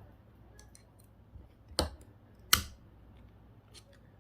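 A small ceramic electronic component being cracked open with a hand tool: a few light ticks of metal on the part, then two sharp cracks a little under a second apart.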